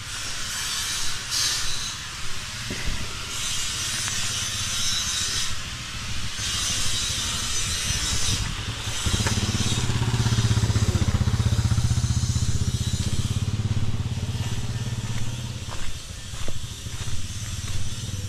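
A motor vehicle engine, likely a motorcycle, running and passing close: its hum swells about halfway through, is loudest for a few seconds, then fades, over a rushing hiss that comes in gusts early on.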